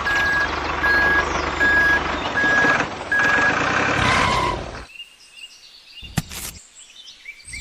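Vehicle reversing alarm beeping at an even pace, about one beep every 0.7 s, over the noise of a running engine. The beeping stops about three and a half seconds in, and the engine noise cuts off about a second later, leaving it much quieter apart from a sharp click.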